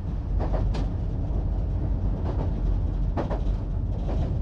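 AEG diesel multiple unit running along the track, a steady low rumble broken by several short wheel-on-rail clatters.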